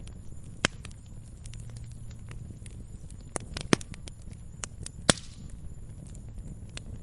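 Wood bonfire crackling and popping, with scattered sharp pops over a low steady rumble of the flames. The loudest pop comes about five seconds in and is followed by a brief hiss.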